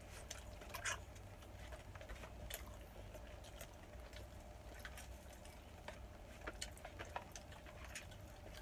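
Quiet eating sounds: soft wet chewing and mouth clicks, scattered about a second apart, over a low steady hum.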